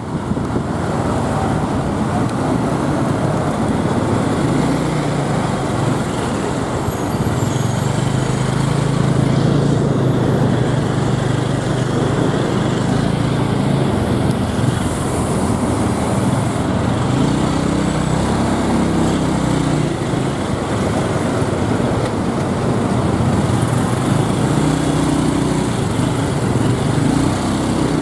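Motorbike engine running under way, its pitch rising and falling as the bike speeds up and slows in traffic, with the steady rush of road traffic around it.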